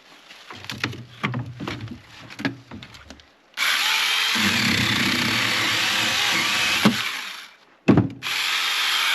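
Scattered wooden knocks, then a power saw cutting through wood in a loud steady run of about four seconds. It stops briefly with a single knock and starts cutting again near the end.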